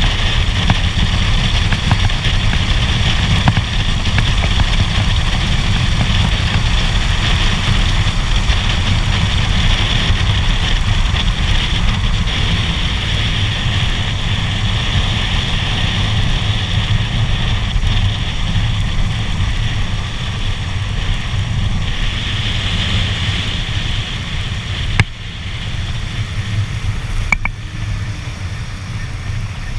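Kawasaki Ninja 250 parallel-twin motorcycle running steadily, heard as a low rumble with a hiss above it, growing a little quieter toward the end. A sharp knock about 25 seconds in.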